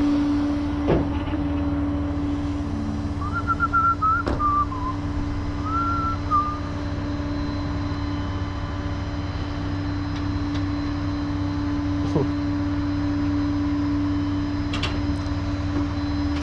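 Truck engine running steadily with a constant hum, and a few sharp clicks scattered through. A short chirping whistle comes about three to six seconds in.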